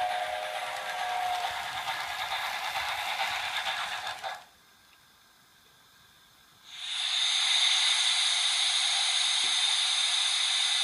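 Denver & Rio Grande Western steam locomotive venting steam with a steady hiss, as the last of its whistle dies away in the first second or so. The hiss cuts out about four seconds in, and after two seconds of near silence a louder steady hiss of escaping steam starts up.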